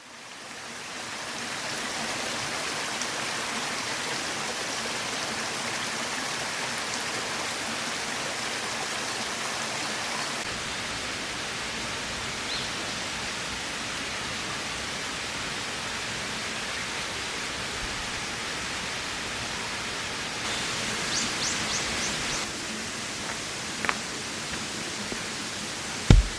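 A steady rushing outdoor noise fades in over the first two seconds and then holds. A few faint high chirps come about twenty-one seconds in, and two sharp knocks come near the end.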